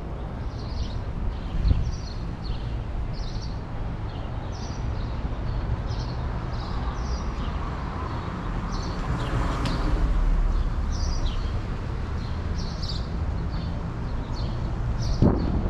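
Birds chirping over and over in short calls above a steady low rumble of wind and riding noise. A vehicle passes, swelling and fading about nine to ten seconds in.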